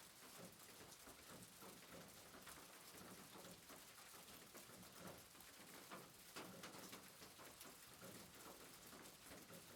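Faint, steady soft rain: an even hiss dotted with many small irregular patters.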